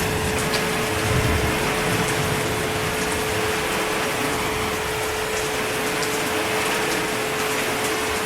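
Steady heavy rain, an even hiss with scattered fine drop ticks and a steady low hum running through it; a brief low rumble about a second in.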